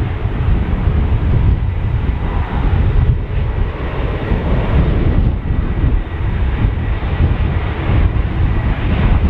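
Airliner engines running loud and steady, mixed with a gusting rumble of wind buffeting the microphone.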